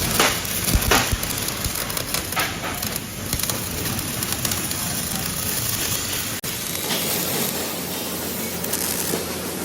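Metal-fabrication workshop noise: a steady, noisy din with several sharp knocks in the first three seconds. The sound changes abruptly about six and a half seconds in.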